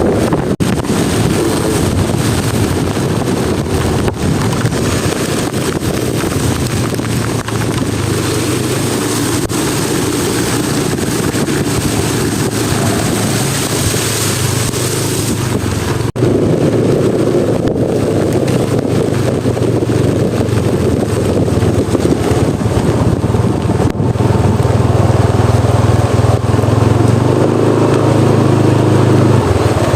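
A motor vehicle engine running steadily under heavy rain and wind noise, the engine growing louder in the second half.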